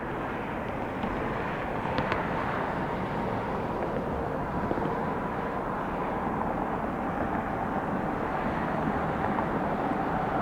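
Airbus A320-200 jet engines running, a steady jet noise with a faint steady whine, as the airliner departs.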